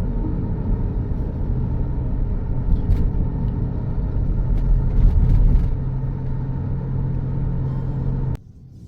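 Low steady rumble of a moving vehicle's engine, with a steady low hum that sets in about two seconds in; it cuts off suddenly near the end.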